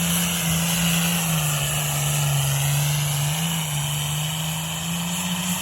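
Pulling-vehicle engine running hard at high revs under load during a pull, with a steady loud drone whose pitch sags slightly around two seconds in and climbs back near the end.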